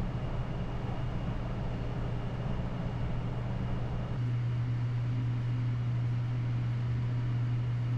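Steady low hum of running kitchen machinery. About four seconds in, a layer of rushing noise drops away and the hum carries on alone.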